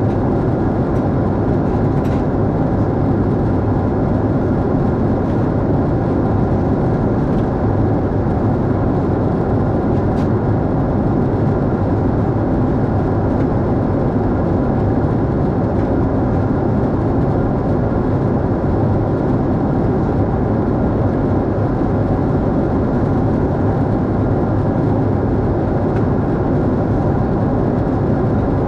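Steady cabin noise of a Boeing 747-8 in flight: an even, loud rumble and rushing hiss from airflow and engines, with a couple of faint ticks.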